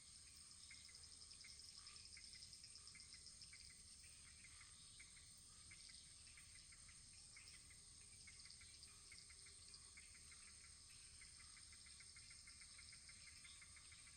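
Faint wood fire in a fireplace crackling: many small, irregular pops and ticks over a steady soft hiss.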